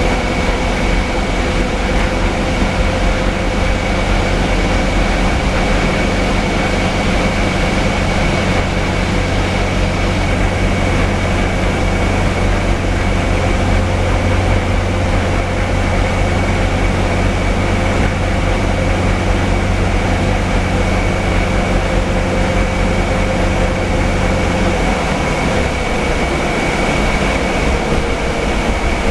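Inside the cabin of a Scania K320UA articulated-chassis city bus under way: the diesel engine and driveline drone steadily with road noise, and a steady high whine runs over them. About 25 seconds in, the low engine drone drops away as the bus eases off.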